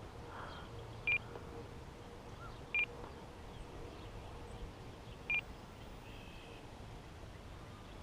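Three short, single electronic beeps from the RC radio transmitter, about two seconds apart, over faint steady background noise.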